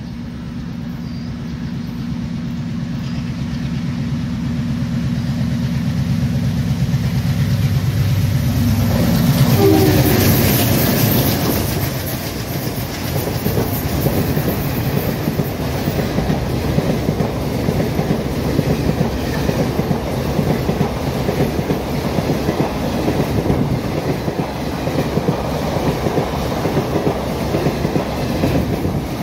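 Express train passing at speed. The locomotive's rumble builds and peaks as it goes by about ten seconds in, dropping in pitch. Then a long rake of ICF passenger coaches clatters rapidly and steadily over the rails.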